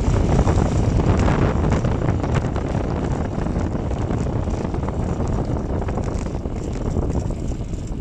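Wind rushing over the microphone as a bicycle rolls down a steep wet road, a steady noise that eases slightly towards the end.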